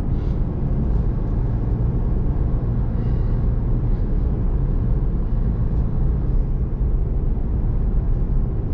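Steady low rumble of a pickup truck driving at highway speed, its engine and tyre road noise heard from inside the cab.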